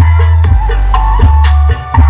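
Loud music played over a large sound system during a sound check: heavy bass notes and drum hits under a high, held melody line.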